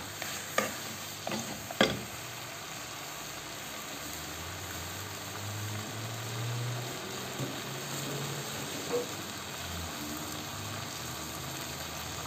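Pieces of sheep's head meat and chickpeas sizzling as they fry in a spicy tomato sauce in a nonstick pan, the spices being fried in before any broth is added. A spoon stirring the pan knocks and scrapes a few times in the first two seconds, then the sizzle goes on steadily.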